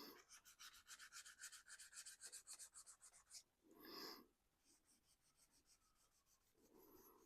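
Faint, quick rubbing strokes on a 3D-printed plastic RC car body during weathering, about eight a second. They stop about three and a half seconds in, a brief louder whoosh follows, and then fainter strokes resume.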